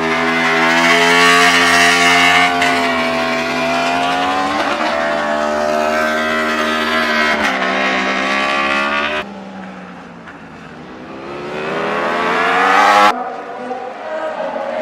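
Racing superbike engines at high revs, a loud engine note whose pitch shifts and steps several times. About nine seconds in the sound cuts abruptly to a quieter stretch where an engine climbs in pitch as it accelerates. It cuts again about thirteen seconds in.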